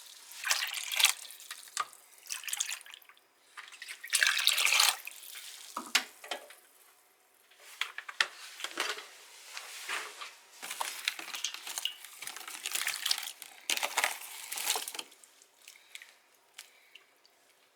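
Water from a tap splashing into a sink in short, uneven bursts, with quieter drips and trickles between them.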